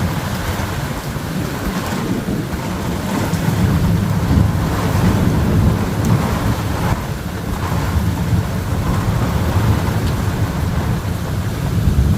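Thunder rumbling in long rolling swells over steady rain, with wind.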